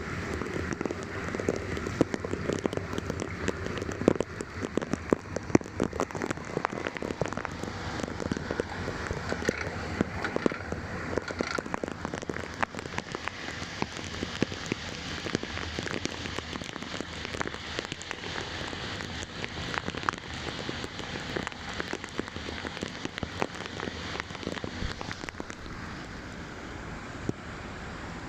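Heavy rain falling, a dense steady patter of drops hitting surfaces, easing slightly near the end.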